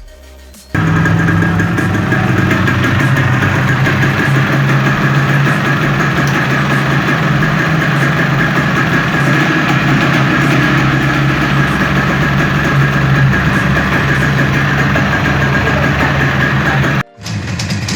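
Motorcycle engine running steadily at idle, its pitch holding constant without revs. It stops abruptly near the end and another engine starts running.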